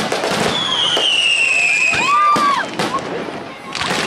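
Fireworks display with aerial shells going off: sharp bangs and crackling, a long whistle falling in pitch from about half a second in, and another cluster of bangs near the end.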